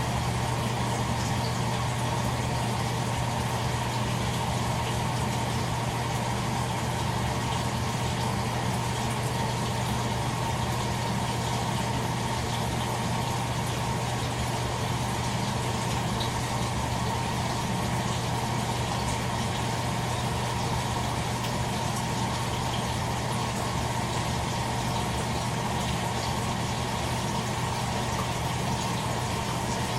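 Toshiba AW-42SEE4 fully automatic washing machine running on its standard course: a steady low hum over an even hiss, unchanging and without rhythm.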